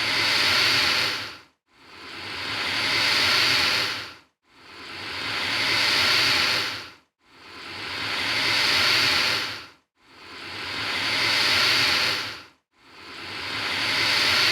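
Alligator hissing: a long, breathy hiss that builds up and then dies away, repeated at a perfectly even pace of about one every 2.7 seconds, roughly five in a row.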